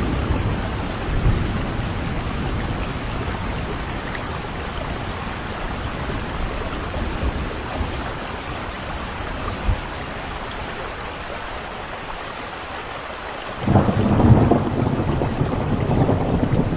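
Thunderstorm: steady heavy rain with thunder rumbling low, a longer, louder roll of thunder starting near the end.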